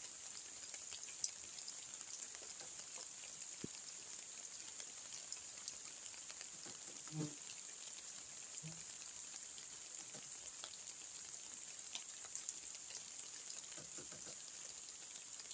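Rain falling: a steady hiss of rain with scattered individual drops ticking on surfaces. A brief low sound comes a little past halfway.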